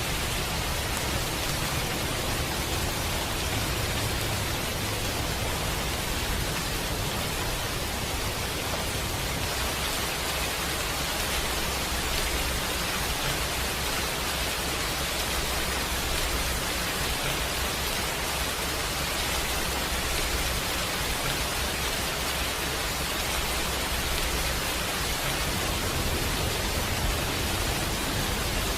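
Steady rain ambience: an even, unbroken hiss of rainfall with a low rumble underneath.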